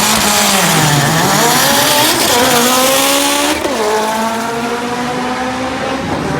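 Race car engine accelerating hard on a drag strip. Its pitch climbs through the gears and drops at shifts, about a second in and again about three and a half seconds in.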